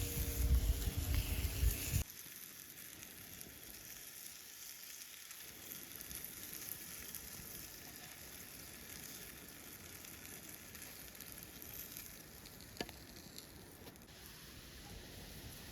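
Food sizzling faintly and steadily on a hot cooking stone over a campfire, with a single sharp click near the end. It starts after a louder low rumble in the first two seconds that cuts off abruptly.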